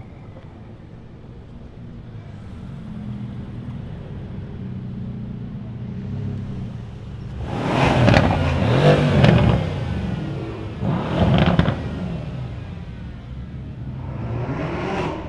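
Cars driving away one after another, engines revving as they pull past over a steady idling rumble. The loudest pass-by comes about halfway through, a shorter one follows soon after, and another builds near the end.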